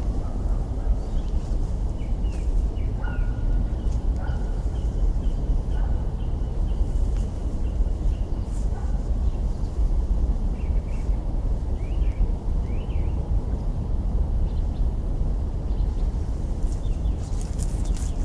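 Campfire burning with sharp crackles from the burning twigs, a cluster of them near the end, while birds chirp in short repeated notes and a few whistled calls. A steady low rumble runs underneath.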